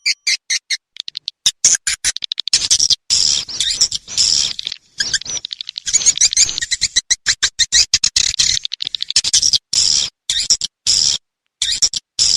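Swiftlet calls: dense runs of rapid high chirps and twittering, broken several times by sudden gaps of silence. This is a recorded swiftlet lure track of the kind played to draw swiftlets into a nesting house.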